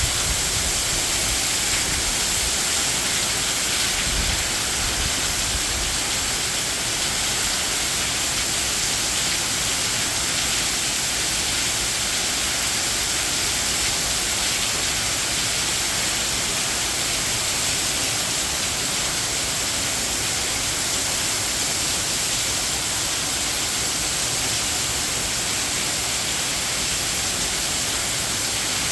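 Heavy rain falling steadily in a constant dense hiss, with some low rumbling of wind in the first few seconds.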